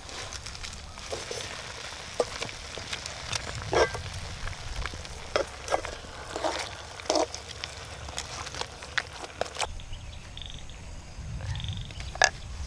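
Chicken and cabbage sizzling in a wok over a wood fire while being stirred, the stirring strokes scraping and clacking against the pan. The sizzling drops away about ten seconds in, and a single sharp knock comes near the end.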